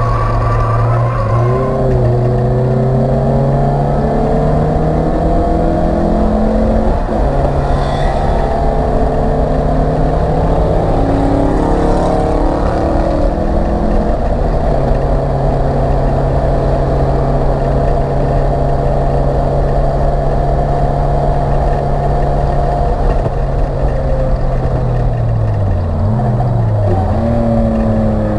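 Acura Integra race car's four-cylinder engine heard loud from inside the stripped cabin, held at high revs along the straights. Its pitch drops and climbs again a few times as the driver shifts and brakes for corners, with a longer fall and rise near the end.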